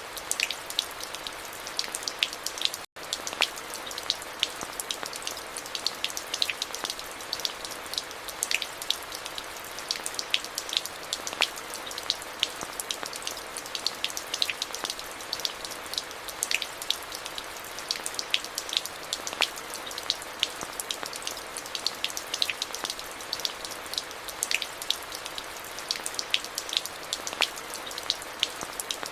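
Steady rain: an even hiss with many crisp, close drop ticks scattered through it. The sound cuts out for an instant about three seconds in.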